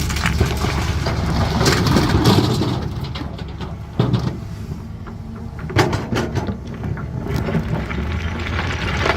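CAT 320D excavator's six-cylinder diesel engine running under hydraulic load, swelling about two seconds in, with stones clattering and knocking against the bucket; a sharp knock about four seconds in and another near six seconds.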